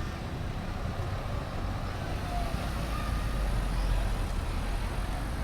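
Low rumble of a passing motor vehicle, swelling about halfway through and then easing.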